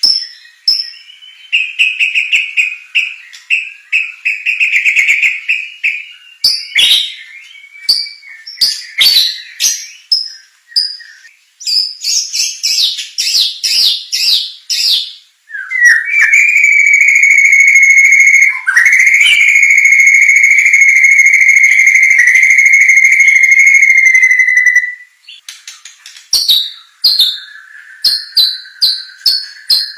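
Murai batu (white-rumped shama) singing a varied song of loud high whistles and rapid trills. In the middle comes one long, steady, shrill note of about nine seconds, then the quick trilled phrases resume.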